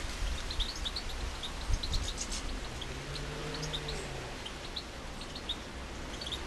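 Small garden birds, finches and sparrows, giving short high chirps and tweets scattered throughout, over a steady low rumble of outdoor background noise. A faint low hum comes in about halfway through.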